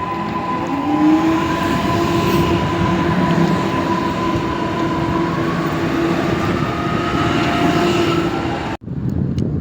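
A train running at a railway station, with a continuous rumble and a steady high whine from its running gear. The sound cuts off abruptly about nine seconds in, and a quieter, windy sound follows.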